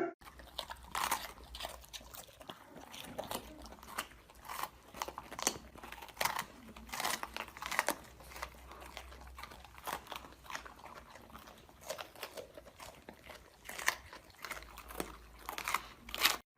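A pet chewing crunchy food close up: irregular crunches throughout, over a faint low hum.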